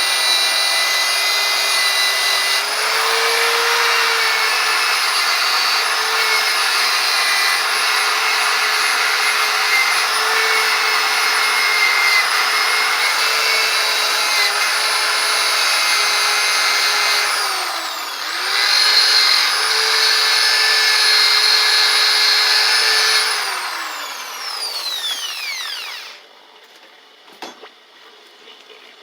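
Electric power tool spinning a buffing wheel at high speed, a steady high whine as it works on metal. The whine dips briefly and picks back up, then the tool is switched off and winds down with a falling whine, followed by a few light clicks.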